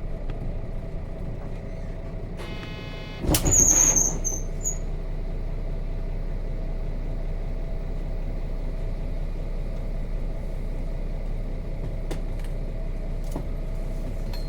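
Nissan Diesel RM bus's FE6 diesel engine dropping to a steady idle. A short buzzer-like tone comes about two and a half seconds in, then a loud hiss of compressed air with a high squeal at about three seconds in.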